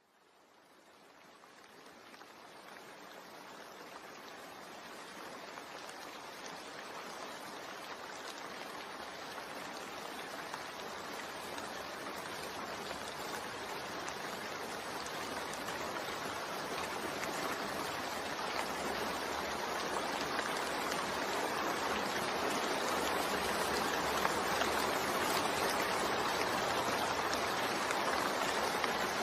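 Continuous rain blended with white noise, a steady hiss of falling rain fading in from silence and swelling gradually over the first twenty seconds or so before holding level.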